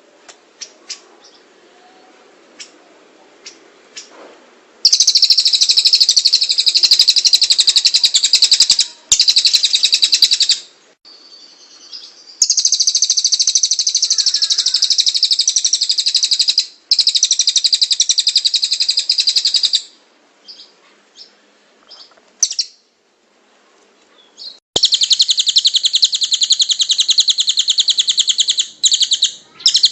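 A tengkek cililin bird singing long, very rapid, high trills in four runs of three to five seconds each, after a few quieter seconds at the start.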